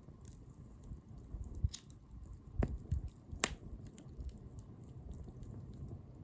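Wood bonfire crackling, with scattered sharp pops over a low rumble; the sharpest pop comes about three and a half seconds in.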